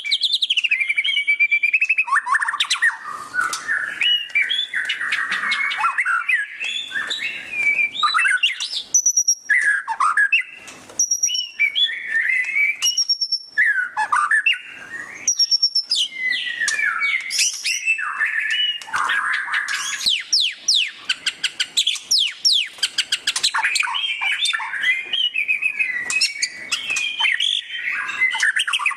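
White-rumped shama (murai batu) singing loudly without a break, a varied run of clear whistled phrases and slurs with bursts of fast chattering trills (ngeriwik), densest in the second half.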